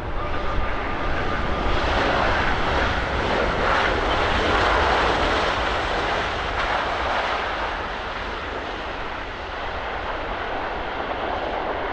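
Jet engines of a Boeing 787-9 airliner passing on landing: a steady roar that swells to its loudest about four to five seconds in, then slowly fades.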